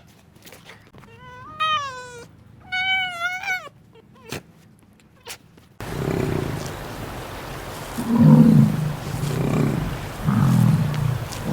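A cat meowing twice, two drawn-out calls that bend in pitch, among a few light clicks. About halfway through the sound cuts to a noisier scene where another animal gives short, low calls about once a second.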